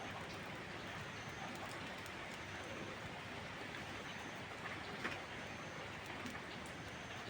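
Heavy rain falling steadily, with a few sharp clicks over it, the loudest about five seconds in.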